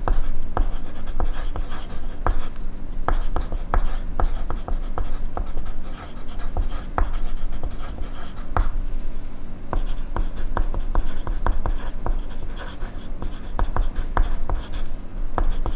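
Pencil writing on paper, close-miked: a steady scratching of the lead with many short, irregular strokes and taps of the tip.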